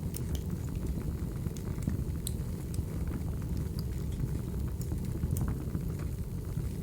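Wood fire burning: a steady low rumble of flames with scattered sharp crackles and pops of burning logs.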